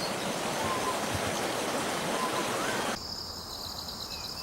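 Wilderness ambience: an even rushing, stream-like noise for about three seconds, then a sudden cut to a steady, high, pulsing insect trill like crickets or cicadas, with a few faint short bird chirps.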